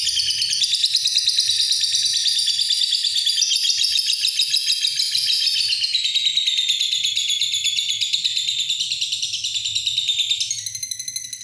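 Lovebird giving its long 'ngekek' song: one continuous, rapid, shrill chattering trill lasting about ten seconds, dipping slightly in pitch about halfway, then breaking off near the end.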